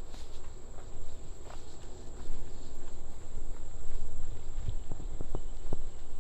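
Footsteps on a nature trail against a steady high-pitched insect trill, with a few sharper steps about five seconds in.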